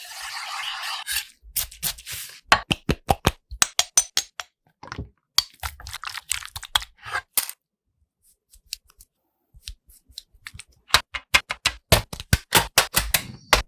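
Crispy fried chicken crunching in quick, irregular runs of sharp crackles, with a steady hiss in the first second and a pause of about three seconds a little past the middle.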